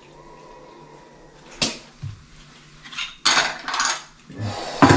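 Metal objects clinking and clattering, with a few separate sharp knocks and then a longer stretch of rattling.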